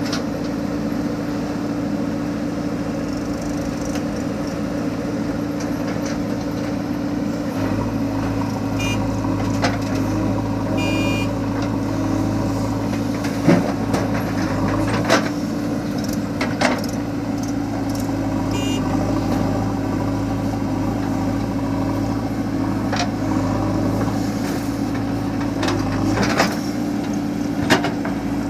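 Heavy diesel engine running steadily, its hum deepening and growing stronger about a quarter of the way in, with a few sharp knocks over it.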